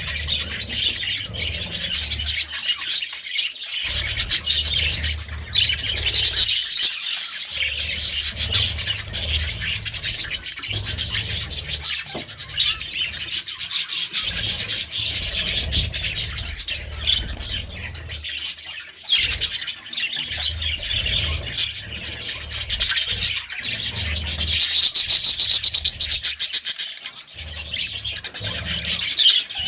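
A flock of budgerigars chattering and warbling continuously with dense high chirps, with a low rumble coming and going underneath.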